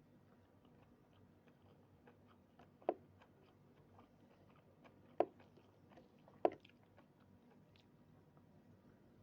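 A person chewing food close to the microphone, with a run of soft, wet clicks. Three sharp louder clicks stand out, about three, five and six and a half seconds in.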